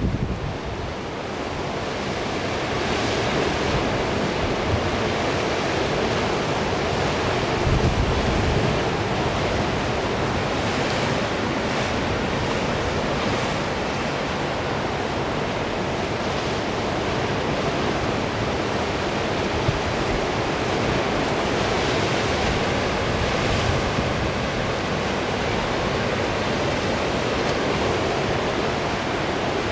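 Sea surf breaking steadily in strong wind, with gusts buffeting the microphone; the strongest gust comes about eight seconds in.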